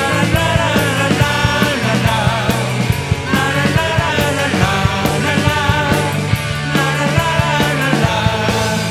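Rock band music: a lead electric guitar solo with bent, wavering notes over a steady bass line and a drum beat.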